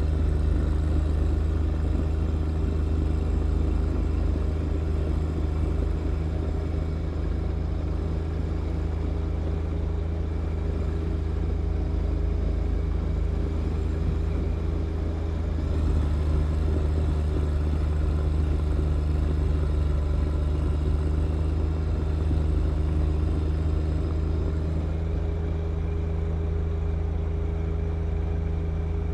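John Deere 1025R tractor's three-cylinder diesel engine running steadily at working speed, with a low, even drone. The level lifts slightly about halfway through.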